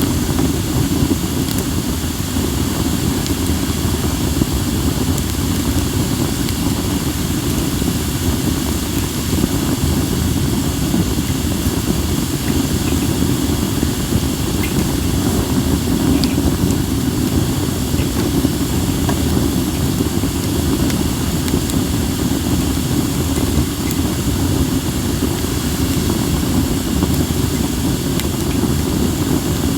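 Acacia and mixed firewood burning in a fire pit, with a few faint crackles, under a loud, steady low rumble of wind on the microphone.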